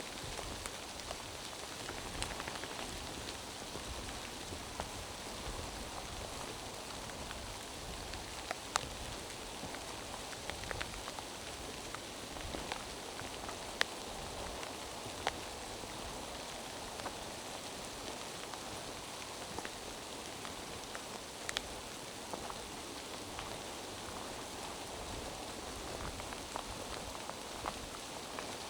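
Steady rain falling through the forest, an even patter with scattered sharper drops ticking now and then.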